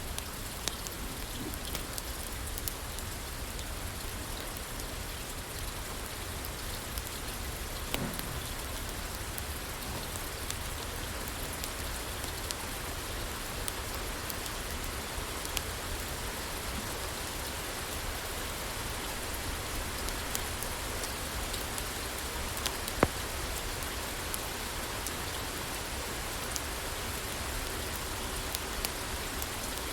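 Steady rain falling on a roof, with a wood fire crackling now and then: scattered sharp pops, the loudest about 23 seconds in.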